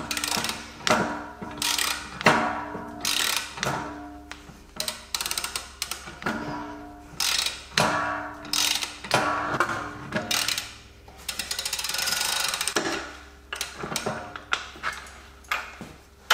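Hand ratchet clicking in repeated short strokes while working a suspension nut or bolt, over background music.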